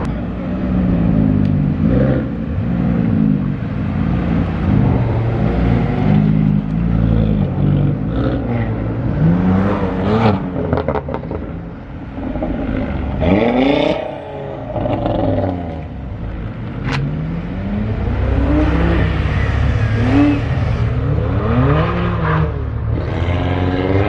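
Car engines revving and accelerating hard, pitch climbing and dropping over and over as the cars rev and pull away. One short sharp crack about two-thirds of the way through.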